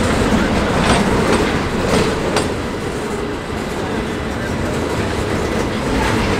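Train rolling past: a steady rumble of wheels on rail, with sharp clicks of wheels striking the track a few times in the first half.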